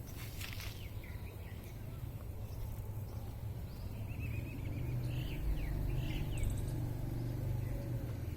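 Small birds chirping in short, quick calls, clustered from about halfway in, over a steady low rumble.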